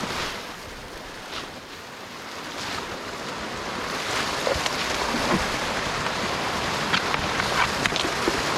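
Steady rushing hiss of a rider sliding down through snow, getting louder from about two seconds in, with wind buffeting the microphone and occasional short scrapes.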